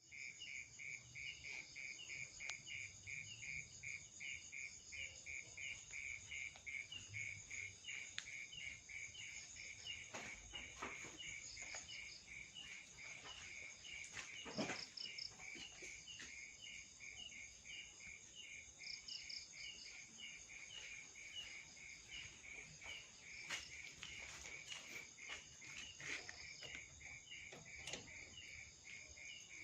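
Insects, likely crickets, chirping steadily in an even pulsing rhythm of about two to three chirps a second, with a few faint clicks.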